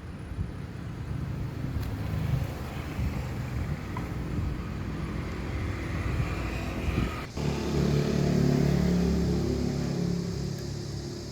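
A small motor running steadily. It breaks off abruptly about seven seconds in, then comes back louder with a clearer hum.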